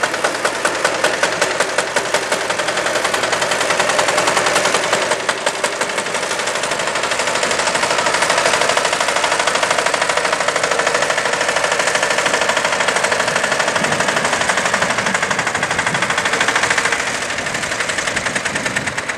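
Helicopter running close by: rapid, even chop of the rotor blades over a steady turbine whine, easing slightly near the end.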